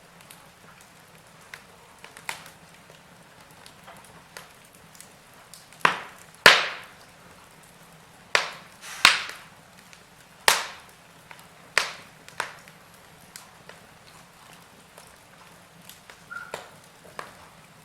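Wood fire in a fireplace crackling, with irregular sharp pops and snaps over a faint hiss. A cluster of louder pops comes in the middle.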